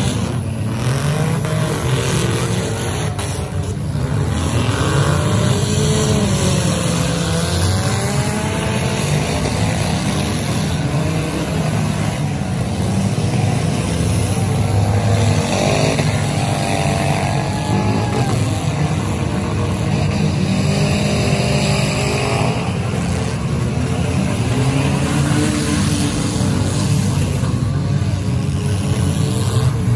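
Several demolition derby cars' engines revving hard together, their pitch rising and falling again and again in a loud, continuous din.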